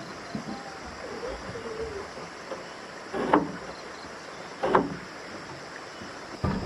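Two sharp strikes of a tool on wood, about a second and a half apart, during timber work on a wooden house wall.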